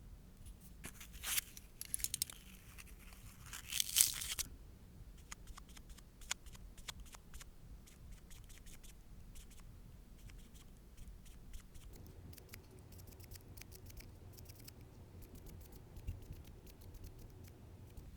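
Close-up handling sounds of nail work. A few short scratchy, tearing rasps come in the first four seconds, the loudest about four seconds in, followed by a scattering of light clicks and taps.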